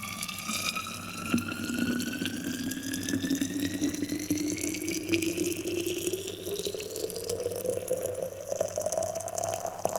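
Boiling water poured in a steady stream into a container of dried rosehip, the pitch of the filling rising steadily as the vessel fills.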